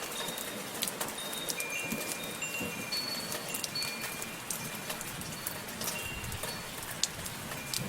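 Steady soft rain with drops pattering sharply, and wind chimes ringing a few scattered, short high notes over it.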